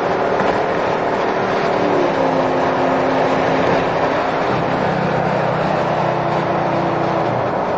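A car engine running under a steady, loud rushing noise. Its tone steps down about two seconds in, and a lower engine tone joins about halfway through.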